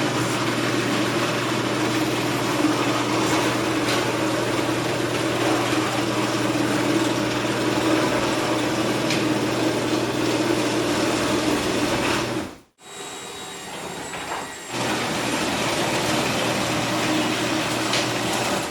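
Old Stanley garage door opener running as it drives the door along its track: a loud, steady mechanical rumble with a constant hum, which stops abruptly about twelve seconds in as the door reaches the end of its travel. After a short, quieter pause, a similar steady mechanical noise without the hum starts again.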